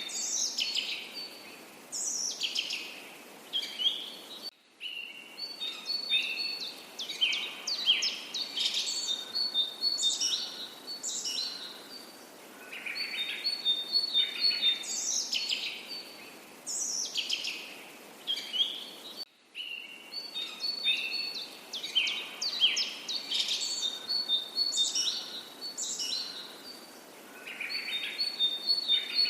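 Several songbirds singing and calling: quick chirps, high twittering trills and falling whistles, over a faint steady background hiss. The same stretch of song repeats about every fifteen seconds, with a brief sudden dropout each time it loops.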